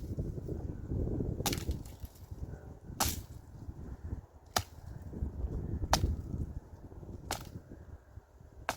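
A series of sharp strikes, about one every second and a half, over a low rumble.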